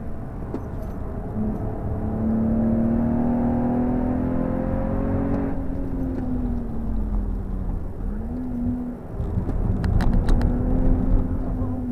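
BMW M135i's turbocharged 3.0-litre straight-six, fitted with the M Performance exhaust, heard from inside the cabin at speed over tyre and road noise. The engine note climbs slowly under load, falls away about halfway, breaks off briefly and picks up again, then drops near the end. A few sharp knocks come about ten seconds in.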